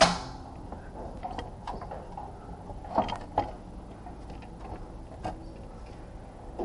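Metal tools and parts being handled in a workshop: scattered sharp clicks and knocks at irregular intervals over a steady low hum, loudest right at the start and a pair about three seconds in.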